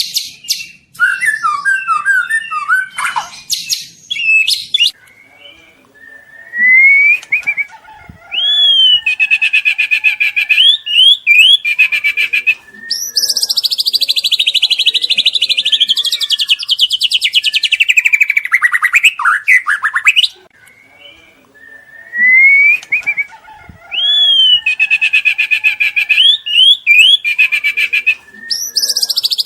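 Juvenile white-rumped shama (murai batu) singing in varied phrases: rising whistled notes, quick chattering trills, and a long rapid buzzing trill in the middle. Much of the same sequence repeats near the end.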